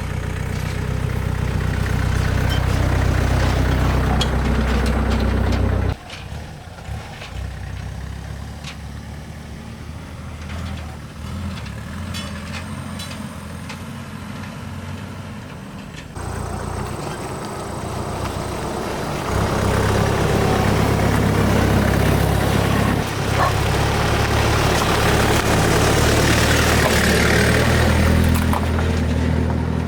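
An engine running steadily. It drops away suddenly about six seconds in and comes back in the second half with more noise over it.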